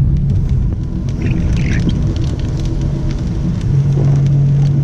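A car's steady engine and road drone heard from inside the cabin while driving in rain, with many small ticks of raindrops on the car. The engine's hum drops back for a few seconds, then comes up strongly again near the end.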